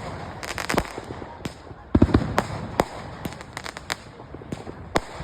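Fireworks going off: a rapid, irregular string of sharp bangs and crackles, loudest in a cluster of heavy booms about two seconds in.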